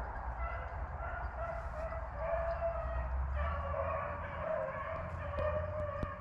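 A pack of rabbit hounds baying together while running a rabbit's trail: many voices overlapping in a continuous, wavering chorus.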